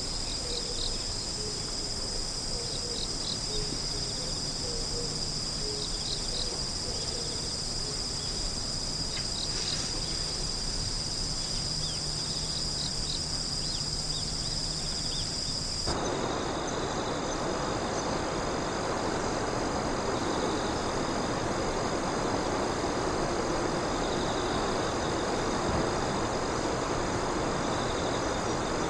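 Insects trilling steadily, with high continuous trills and repeated short chirps. About halfway through the sound changes abruptly to a steady rushing noise, with the insects still faintly heard above it.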